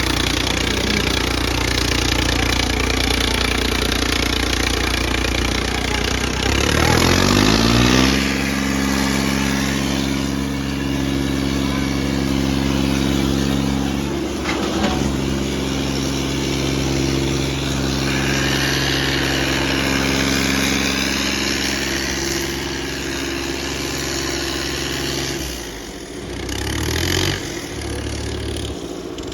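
Diesel tractor engine revving up about a quarter of the way in, then holding steady at high revs while it pulls against the other tractor in a tug-of-war. The revs drop near the end.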